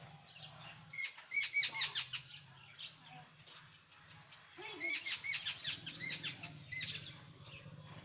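Jungle babblers calling: two bouts of rapid chattering, each a quick string of short arching notes at about six a second, the first starting about a second in and the second about halfway through.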